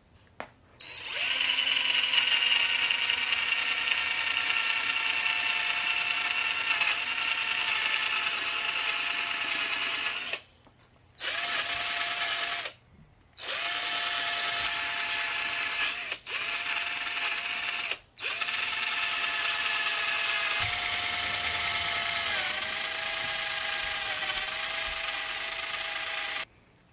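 Electric drill spinning a wire wheel brush against the engine block's gasket surfaces, scrubbing off old gasket material: a steady motor whine over a scratchy brushing hiss. It runs in long stretches with a few short pauses, and the whine sags a little in pitch under load in the later part.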